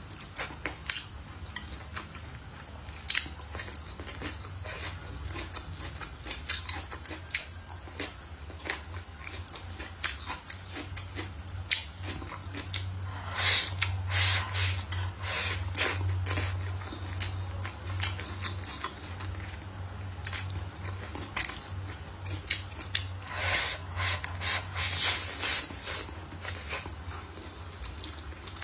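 Close-miked chewing and biting of stir-fried green peppers and meat: irregular wet clicks and crunches in bursts, over a steady low hum.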